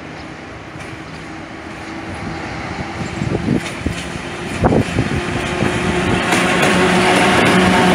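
EP09 electric locomotive hauling a train of passenger coaches, approaching and growing steadily louder. A steady hum from the train strengthens as it nears, with a few sharp knocks a few seconds in.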